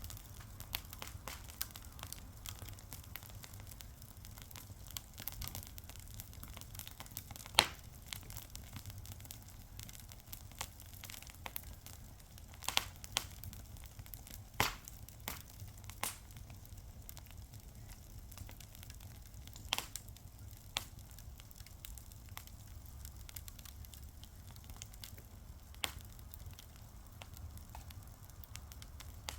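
Fire crackling steadily with many small snaps and a handful of louder sharp pops spread irregularly through, over a low steady rumble.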